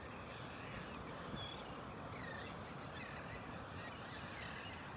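Steady wash of ocean surf with short, high bird chirps repeating about once a second.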